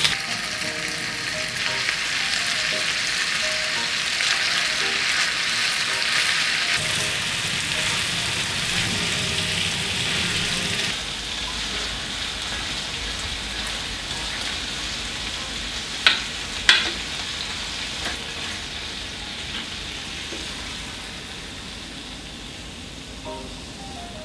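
Pork and thick fried tofu sizzling in a frying pan while sauce is stirred through with chopsticks. The sizzle is loudest for about the first ten seconds, then dies down, with two sharp clicks near the middle.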